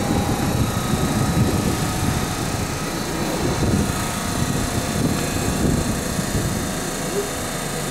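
Electric commuter train running slowly into the platform to stop, with a steady low rumble of wheels on rails and a faint whine above it.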